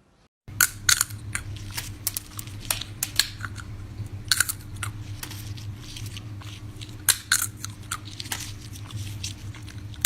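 Irregular crisp crunches and clicks, sometimes several close together, over a steady low hum.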